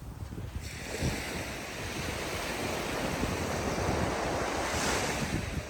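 Surf breaking and washing up the beach. A wave's wash builds about a second in and peaks near the end, with wind buffeting the microphone throughout.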